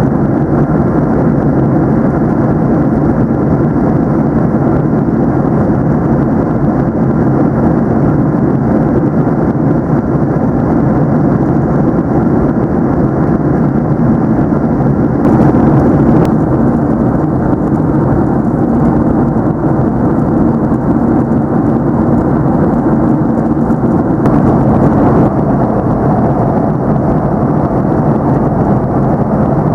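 Loud, steady cabin roar of a Boeing 737-700 jet engines and airflow, heard from inside the passenger cabin, with two brief swells about halfway through and again near three-quarters of the way.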